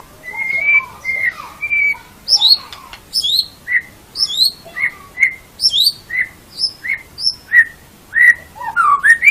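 White-rumped shama singing: a few slurred whistles, then a fast run of repeated phrases, each a sharp note sliding down from high pitch followed by a lower short whistle, about two phrases a second.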